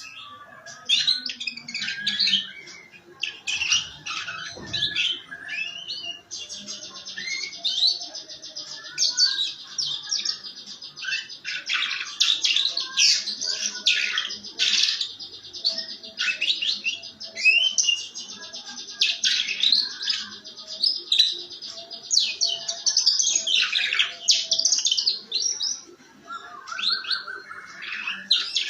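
Domestic canary singing in long, rough, rapid high-pitched trills ('ngeriwik'), broken up by shorter choppy phrases.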